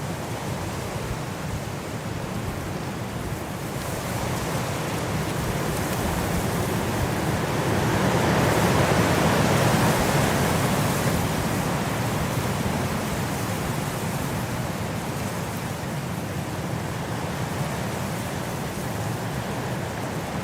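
Wind blowing in a steady rush that swells into a stronger gust about halfway through and then eases back.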